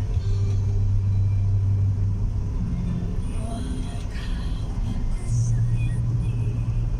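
Steady low rumble and drone of a car on the move, as heard from inside the cabin. The drone's pitch shifts up a little about a third of the way in and drops back later.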